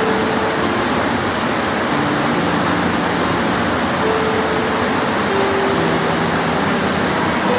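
Steady heavy rain, an even hiss with no let-up. Quiet held tones shift pitch every second or two underneath it.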